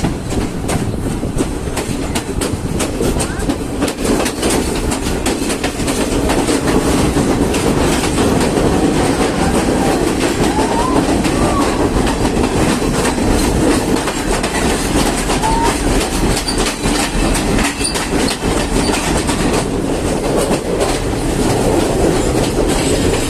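Train running along the track: a steady loud rumble with wheels clicking and clacking over the rail joints.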